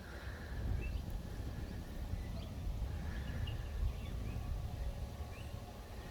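Faint, scattered short bird chirps over a steady low rumble.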